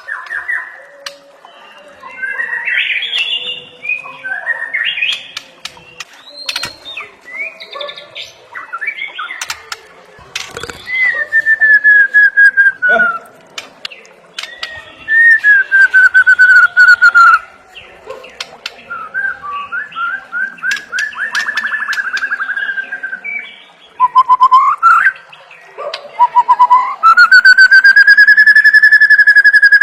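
White-rumped shama singing a varied song: long whistled notes that slide down in pitch, rapid rattling trills, and near the end a rising whistle held steady for about three seconds.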